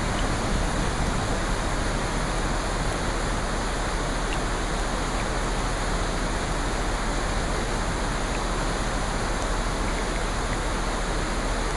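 Steady, even rushing of water from a nature-sound ambience, with a few faint ticks scattered through it.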